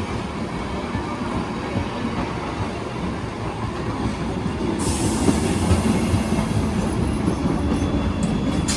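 A train running on the rails: a steady, loud rumble of wheels and cars, with a high hiss coming in about five seconds in.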